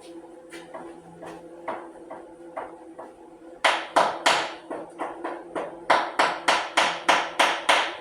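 A run of sharp knocks, each ringing briefly. They are soft and scattered at first, then from about halfway turn loud and steady at about three or four a second, over a faint steady hum.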